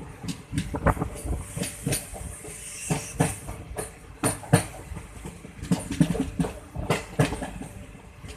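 Moving train heard from on board: the wheels clack over the rail joints and the coach rattles over a steady low rumble, with frequent sharp, irregular knocks.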